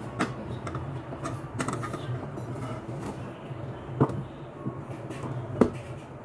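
Handling noise: a few sharp knocks and clicks over a steady low hum, the loudest about four seconds in and another near the end.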